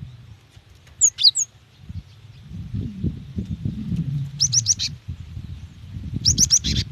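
Female cinereous tit (gelatik batu) calling to a male: a few sharp high chirps about a second in, then two quick runs of rapid chirps near the middle and near the end. A low rumble runs underneath from a couple of seconds in.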